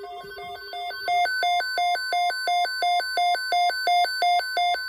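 Weather radio receiver's alert beeping about three times a second, getting much louder about a second in, over the steady tone of the NOAA Weather Radio warning alarm. It is the alert for a tornado watch.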